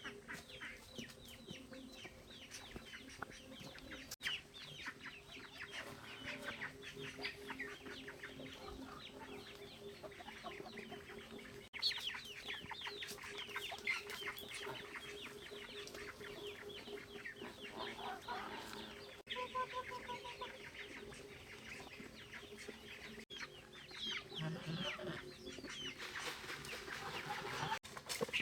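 Chickens clucking, with many short, high chirps.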